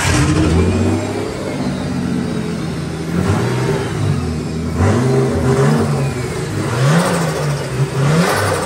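Turbocharged Nissan RB25DET straight-six running just after starting, its revs rising and falling several times. The freshly swapped engine will not idle on its own, which the owner is pretty sure is a fuel pressure issue.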